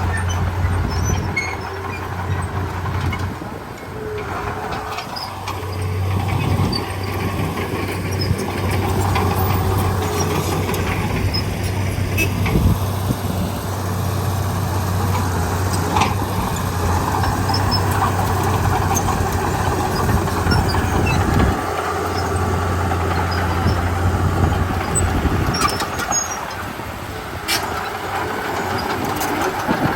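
Komatsu D31P bulldozer's diesel engine running under changing load, its drone rising and easing off, with a few sharp metal clanks.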